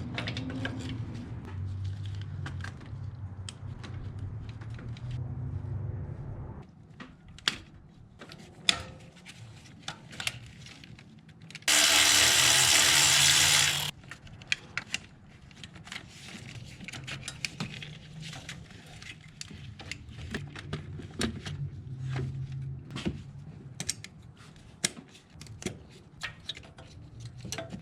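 Clicks and clatter of tools and parts being worked on the engine during ignition coil replacement, over a low hum for the first six seconds. Near the middle, a power tool runs for about two seconds.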